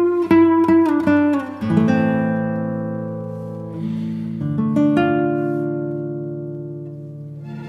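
Background acoustic guitar music: a run of quick plucked notes, then held chords left to ring and slowly fade, with a few fresh notes about halfway through.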